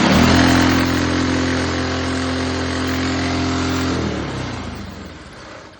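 Governor-removed Predator 212 single-cylinder minibike engine running loud at a steady high speed for about four seconds, then dying down and fading out. It is running badly, a fault the owner cannot explain.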